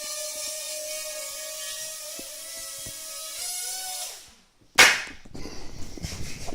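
Parrot Rolling Spider minidrone's propellers whining steadily, the pitch wavering slightly, then winding down and stopping about four seconds in. After a brief silence comes a sudden loud knock, followed by irregular rattling and clattering.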